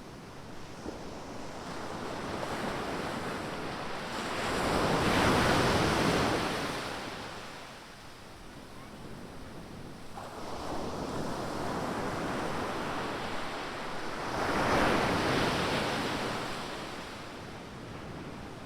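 Ocean surf at a beach: two waves break and wash up, one about five seconds in and another about fifteen seconds in, each swelling to a loud rush and then fading. Wind on the microphone adds a low rumble.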